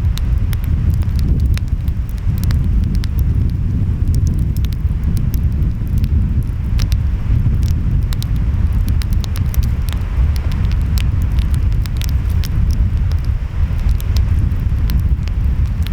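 Wood fire crackling, with frequent small sharp pops, over a steady low rumble of wind and breaking waves.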